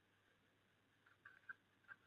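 Near silence, with a few faint, short high chirps in the second half from small birds.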